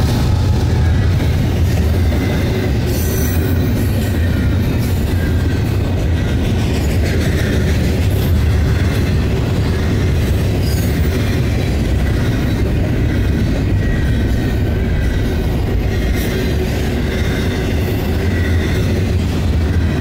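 Double-stack intermodal container train rolling past close by: a steady, heavy rumble of wheels on rail, with a faint, steady high-pitched squeal of wheels above it.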